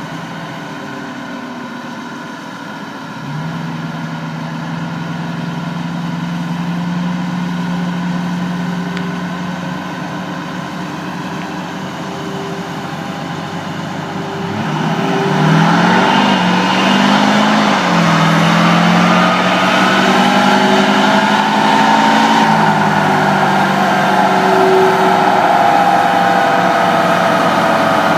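Truck engine running steadily, then about halfway through revving hard and getting much louder, its pitch climbing and dropping in steps.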